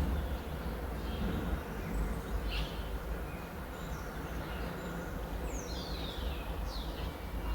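Several birds chirping and calling, with a couple of descending whistled calls near the end, over a steady low background rumble.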